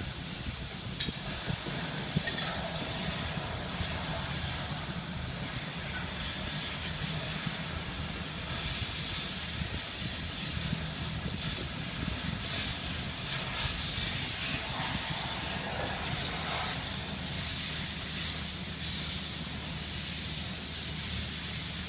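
Construction machinery running: a steady low engine hum under a rushing hiss that swells and fades several times.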